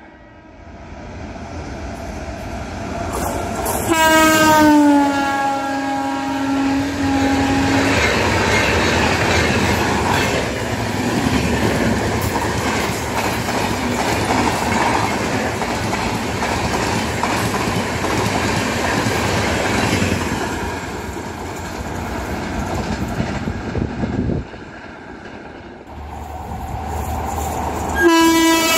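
WAP-7 electric locomotive's air horn sounds about four seconds in, its pitch dropping as the locomotive passes. The train's LHB coaches then rush past at speed with loud wheel clatter for about a dozen seconds before fading. Near the end, another train's horn starts, also falling in pitch.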